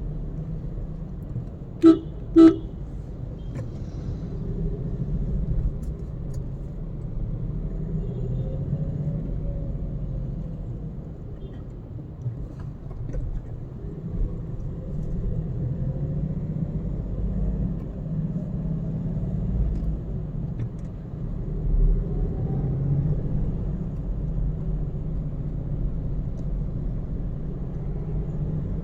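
Steady low rumble of a car being driven, with two short car-horn toots about two seconds in.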